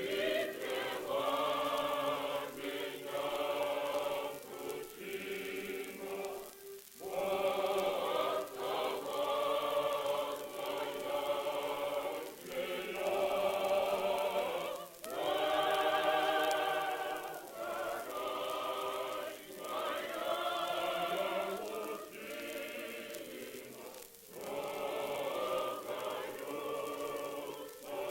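An 18-voice choir singing a slow Russian song in long sustained phrases, with short breaks between phrases about 7, 15 and 24 seconds in.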